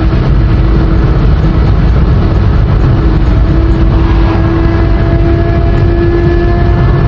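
Kawasaki ZX25R 250 cc inline-four motorcycle engine running at steady high revs at highway speed, its pitch held with a slight rise about halfway through, over a heavy low rumble.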